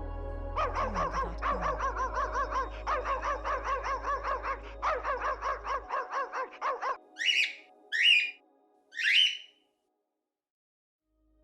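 Animal calls: a rapid chattering run of pitched pulses, about five a second, lasting several seconds. Three short, high, harsh calls follow.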